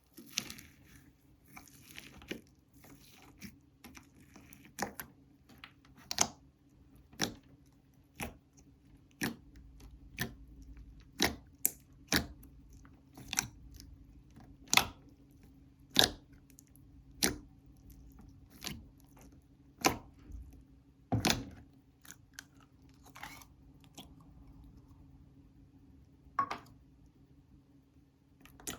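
Slime being pressed and pulled by hand: sharp sticky clicks and pops, about one a second, with softer squishing between them.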